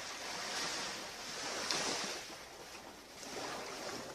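Surf on a beach: waves washing in and out, the loudest swell about two seconds in, then a softer one.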